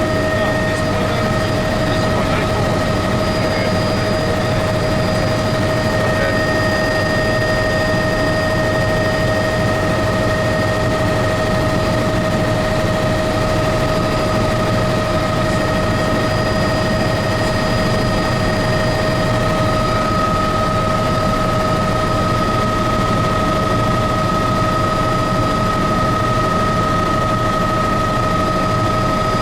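Helicopter in flight: a constant drone with a steady high whine held on several unchanging pitches.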